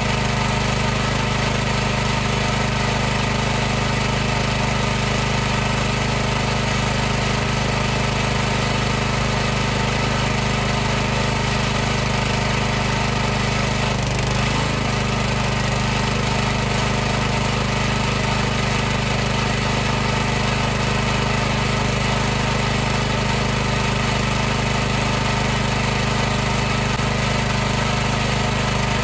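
High-pressure washer running steadily: the motor-driven pump hums evenly with a constant hiss and buzz above it.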